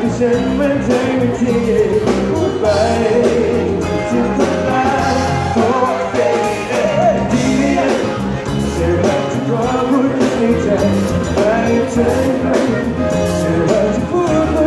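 Live pop band playing with a male lead vocalist singing over it.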